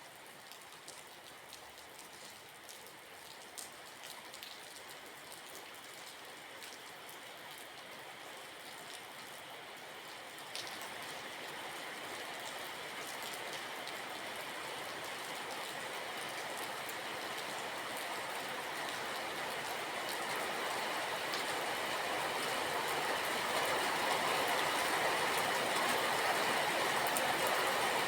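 Steady rain with drops pattering. About ten seconds in, a rushing noise begins to build and grows steadily louder, swamping the rain by the end.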